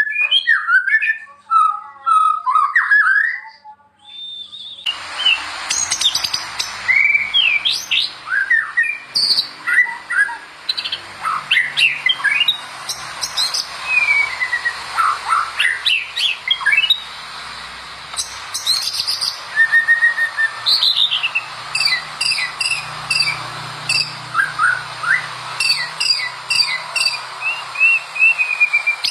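White-rumped shama (murai batu) singing a fast, varied run of whistles, rising and falling slurred notes and chirps. About five seconds in, the recording changes and a steady hiss sits behind the song.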